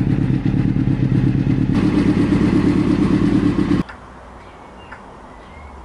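Triumph Daytona 600 motorcycle engine running steadily, growing louder and brighter about two seconds in, then cutting off abruptly near four seconds.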